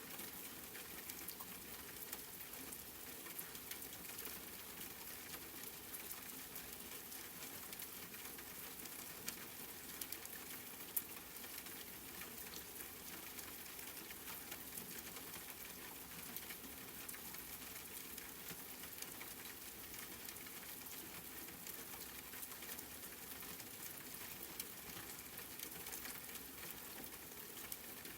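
Steady rain, a dense patter of drops, with a few sharper drop ticks about ten seconds in.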